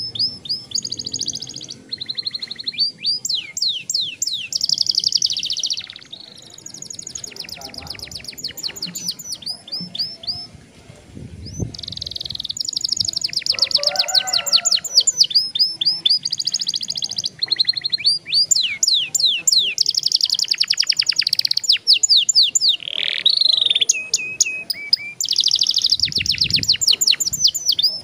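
Young domestic canary singing long rolls: fast trills of repeated sweeping notes in long runs, with a softer stretch about a third of the way in.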